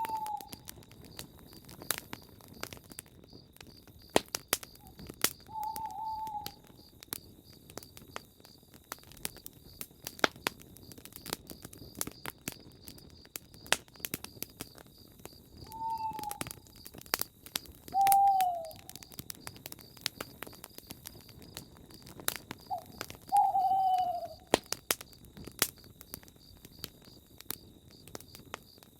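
Campfire crackling and popping throughout, while a bird gives short, slightly falling hoots about five times. A faint, steady, high pulsing chirp runs underneath.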